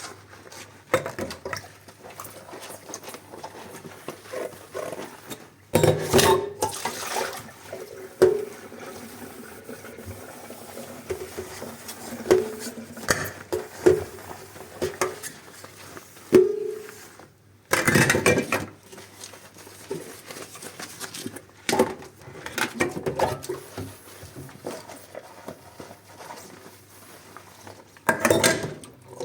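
Dishes and cutlery being washed by hand in a sink: scattered clinks and knocks of crockery and utensils, some ringing briefly, with a few loud splashes of water about a second long.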